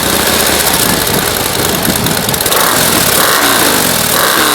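2016 Harley-Davidson Low Rider S's 110-cubic-inch V-twin on its stock air filter and exhaust, running just after start-up. It is blipped a few times, the revs falling back each time, most clearly in the second half.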